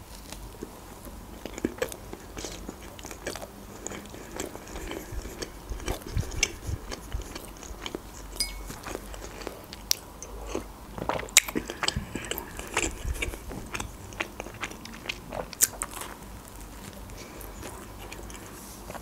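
Close-up eating sounds of khachapuri, the Georgian cheese bread: a bite into the crust, then chewing with many small, irregular crackles and clicks.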